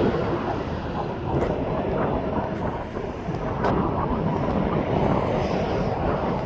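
Rumbling roar of a jet airliner's engines, easing off slightly.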